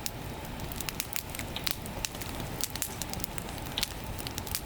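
Wood campfire burning strongly, crackling with irregular sharp pops.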